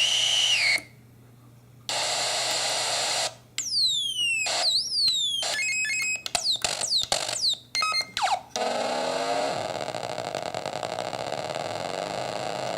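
Homemade electronic sound effects synthesizer cycling through effects. A high rising tone cuts off, then comes a burst of hiss. Next is a quick run of about ten falling laser-like zaps, then steady noise with a low wobbling tone.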